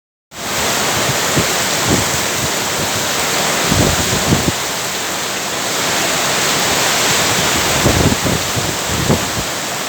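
Heavy rain pouring in a windstorm, a steady loud hiss, with strong gusts buffeting the microphone in low rumbles several times.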